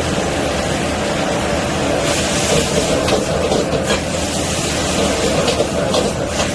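Steady roar of a restaurant wok station's gas burner and hood, with the hiss of stir-frying and several sharp metal clanks of ladle on wok.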